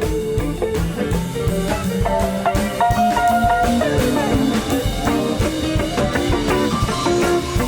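Live rock band playing an instrumental break: drum kit keeping a steady beat under electric guitar and bass, with a long held note about three seconds in. Recorded on a camcorder's microphone.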